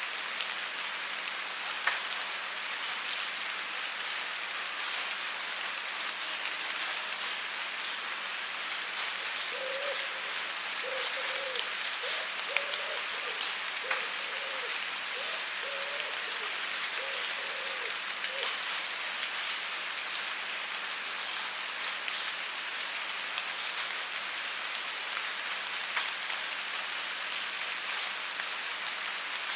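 Steady rain falling on a surface: an even hiss with scattered sharper drop ticks. Midway, a faint run of about seven short low tones sounds, about one a second.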